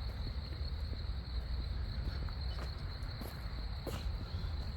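Steady chorus of insects, a continuous high-pitched buzz, over a low rumble of wind on the microphone, with a few faint footfalls on the trail.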